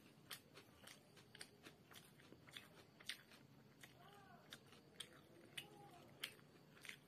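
Faint chewing of chicken chow mein: irregular crunches and wet mouth clicks, a few each second.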